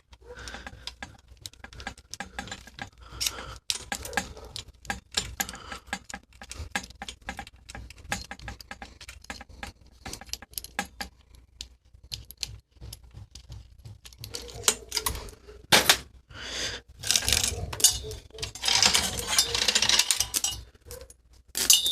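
Bicycle chain being worked off the bike by hand: scattered metallic clicks and the jingle of chain links. It grows louder and busier in the last several seconds.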